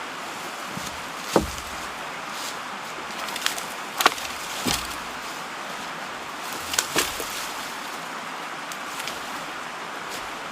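Wood being struck: about six sharp, separate knocks and cracks, the loudest about a second and a half and four seconds in, over the steady rush of a mountain stream.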